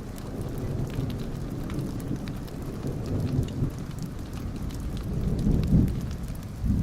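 Wood fire burning in a fireplace: a steady low rumble of flames with scattered small crackles and pops, the rumble swelling louder about five and a half seconds in.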